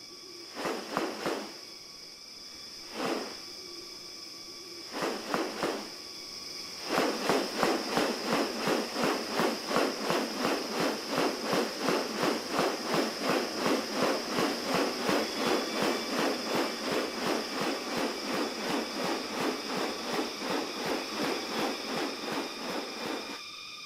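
Rainforest ambience: a steady high buzzing of insects, with a few short separate sounds in the first seconds. From about seven seconds in, a long run of quick, even pulses, about two and a half a second, stops just before the end.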